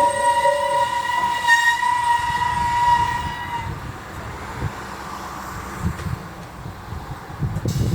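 A Japanese railway level-crossing alarm rings in quick even pulses and cuts off about a second in, while a 373 series limited-express train gives a high, steady squeal that fades out around four seconds in, leaving the low rumble of the train.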